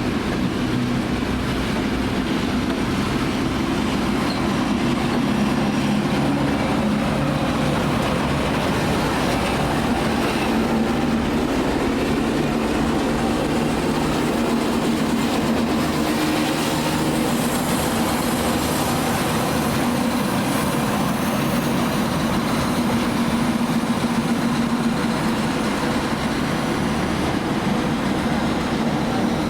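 A train running on the station tracks: a steady rumble of wheels and running gear with a low hum underneath, unbroken throughout.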